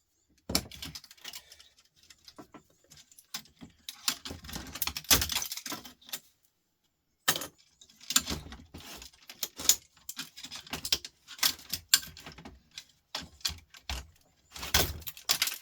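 Small metal parts and hand tools clinking and rattling in irregular clusters as a record player is taken apart, with a second of silence about six seconds in.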